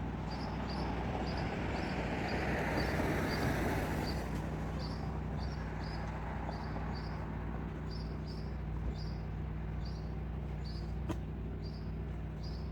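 Outdoor ambience: a high chirp repeating about twice a second over a steady low hum, with a rush of sound that swells and fades about two to four seconds in and a single sharp click near the end.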